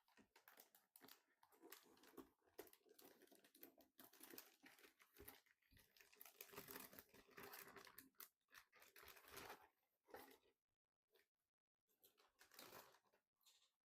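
Faint rustling and crinkling with many small clicks, as of things being handled; it stops about ten seconds in, with one more short burst near the end.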